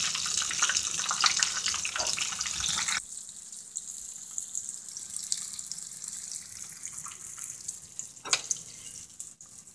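Battered catfish frying in hot grease: a dense crackling sizzle that drops suddenly to a quieter, steady hiss about three seconds in, with a single click near the end.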